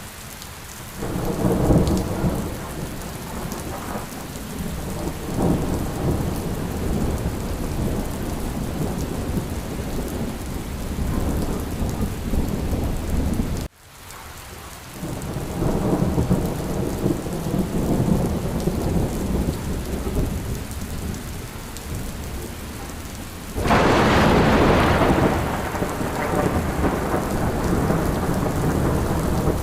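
Steady rain with rolling thunder: rumbles build about a second in and again after a brief dropout halfway through, and a sharp, loud thunderclap breaks near the end.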